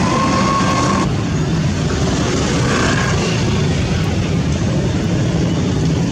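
Diesel engine of heavy construction machinery running steadily, with a high steady whine that cuts off about a second in.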